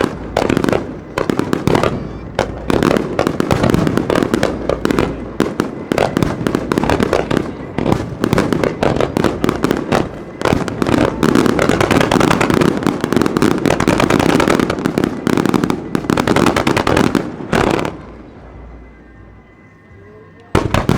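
Aerial fireworks bursting in a rapid, dense barrage of bangs and crackling that dies down after about 17 seconds, followed by a quieter lull and another bang near the end.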